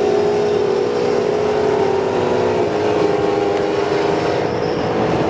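Cars racing at full throttle, heard from inside the cabin of an Acura NSX pacing a Mercedes C63 sedan: a loud, steady engine drone with road and wind noise. The pitch steps slightly lower about two and a half seconds in.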